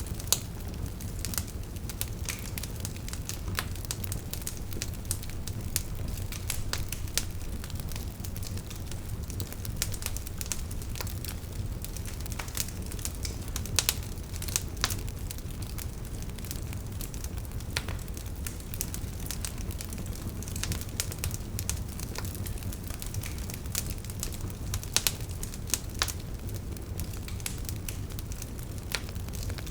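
Wood fire burning: logs crackling and popping in irregular sharp snaps over a steady low rumble of the flames.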